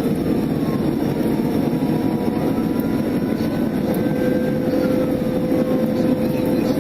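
Police cruiser driving fast in a pursuit: a loud, steady rush of engine, wind and road noise, with a siren wailing slowly up and down underneath.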